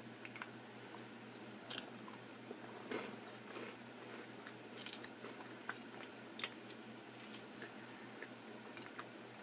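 A person chewing and biting food close to the microphone, with irregular soft crunches and wet mouth clicks.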